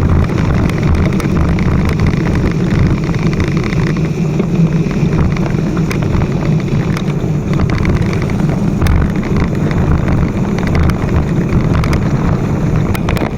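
Motorcycle running while being ridden, with a steady low rumble and wind rushing over the microphone.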